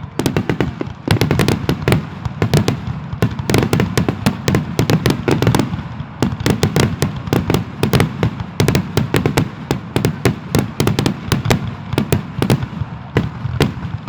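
Aerial fireworks going off in a rapid, continuous barrage: many sharp bangs and crackles every second over a steady low rumble.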